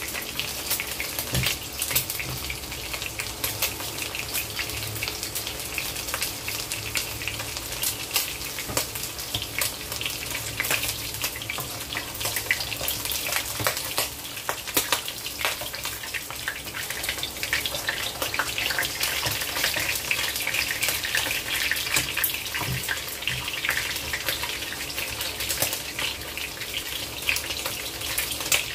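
Pork drumsticks deep-frying in hot oil in a wok: a steady sizzle full of constant crackling pops.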